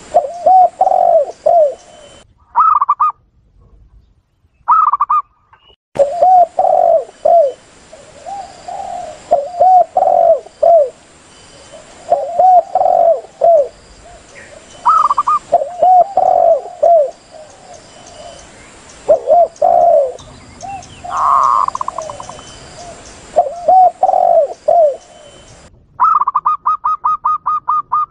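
Recorded spotted dove and zebra dove calls played as a lure: the spotted dove's low coos come in repeated short phrases. The zebra dove's higher, quicker coos are mixed in, ending in a fast run of notes near the end. The track cuts abruptly to silence twice early on where it is spliced.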